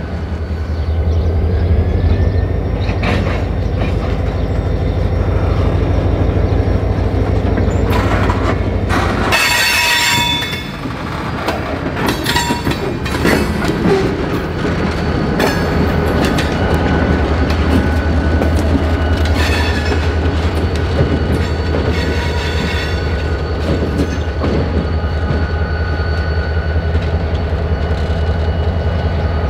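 Diesel freight train passing, with a steady low locomotive engine drone that drops away about ten seconds in and returns a few seconds later. Over it come steel wheels squealing on the rails and the cars clanking and clattering over the track.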